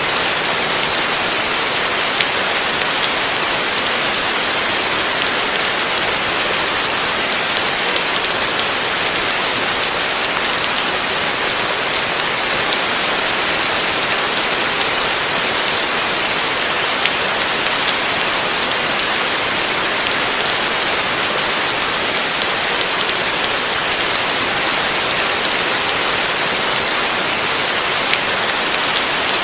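Heavy rain falling steadily on a roof: a dense, even hiss of drops with fine scattered pattering, no thunder.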